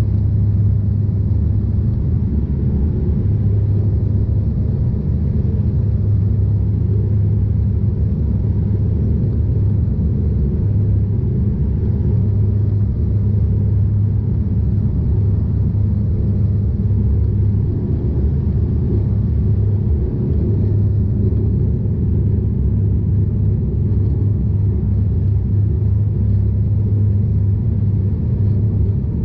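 Steady cabin drone of a Bombardier Dash 8 Q400 turboprop airliner, a loud, even low hum from its propellers and engines.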